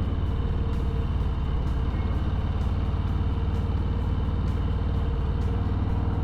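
A Harley-Davidson Low Rider S's Milwaukee-Eight 114 V-twin running steadily under way, a deep even rumble mixed with road and wind noise, heard through a helmet headset mic.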